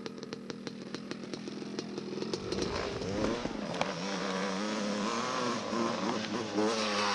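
Dirt bike engines revving, their pitch rising and falling, getting louder about two and a half seconds in.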